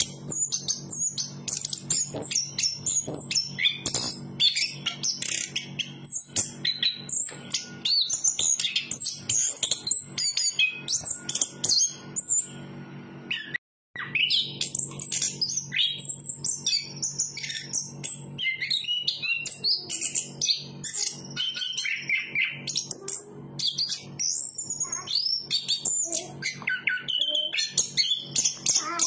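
Chestnut-capped thrush (anis kembang) singing a long, rapid, varied song of high chirps, whistles and trills, with the sound cutting out completely for a moment about halfway through.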